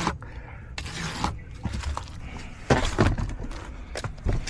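Handling noise from tools and a makeshift straightedge being laid against the surface to mark a cut line: three short knocks and scrapes, the loudest a little under three seconds in.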